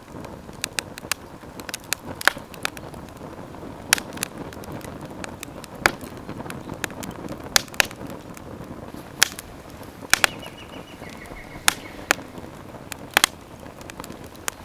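Campfire burning with a steady low rush of flame and irregular sharp crackles and pops from the burning wood.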